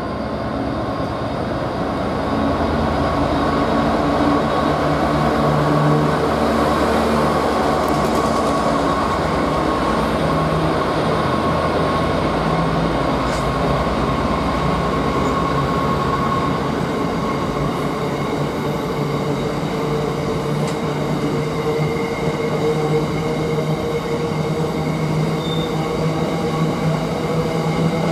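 A train at the station platform, a continuous mechanical running sound with several steady tones, growing louder over the first few seconds and then holding.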